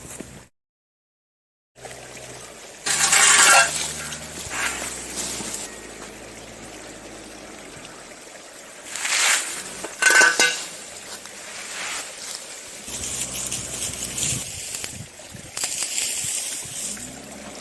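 Tractor engine running with a low, steady hum that changes pitch a few times, broken by several loud bursts of scraping and clinking.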